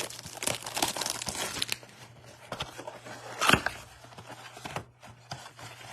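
Crinkling and crackling of trading-card packaging being handled and torn open, with irregular crackles throughout and one louder rip or snap about three and a half seconds in.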